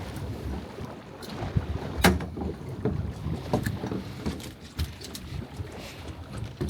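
Scattered knocks and clicks of handling, the sharpest about two seconds in, over a low rumble of wind buffeting the microphone.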